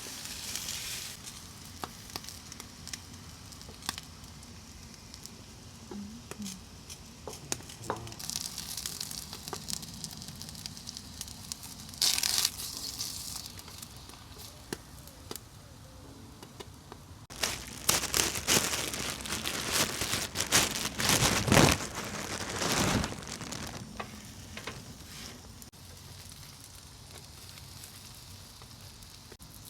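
Food sizzling and frying in a pan, with scattered crackles and a louder stretch of crackling and clatter a little past the middle.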